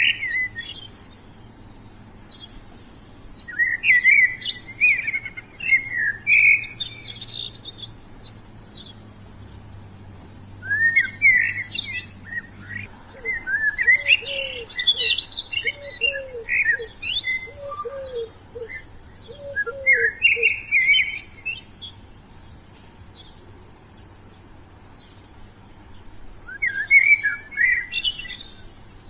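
Wild songbirds singing in bursts of rapid, high chirping and warbling phrases, separated by pauses of a few seconds. In the middle a lower call of about nine short, evenly spaced notes repeats under the song.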